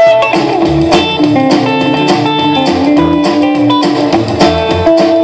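Live rock 'n' roll band playing an instrumental intro with electric guitar over a steady beat.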